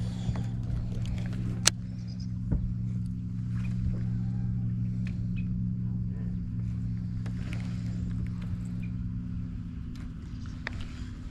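Boat motor running with a steady low hum, part of which drops away near the end. Scattered sharp clicks and taps of fishing gear sound over it, the loudest about two seconds in.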